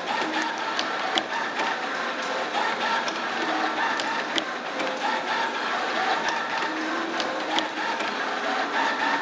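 CNC-620R CNC spring forming machine running: a whirring that rises and falls under sharp clicks about every 0.4 s, with a louder click about every 1.6 s.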